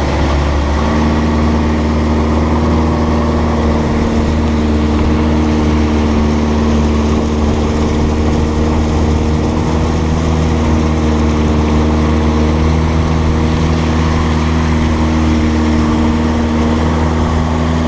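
A river long boat's engine running steadily at cruising speed, a loud, even drone with a deep hum beneath it and the rush of water and wind.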